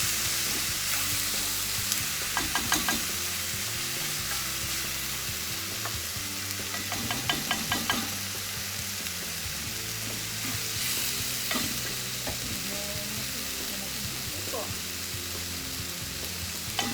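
Chicken mechado sizzling steadily in a pan as it is stirred, with a few short clusters of clinks and scrapes from the spoon against the pan.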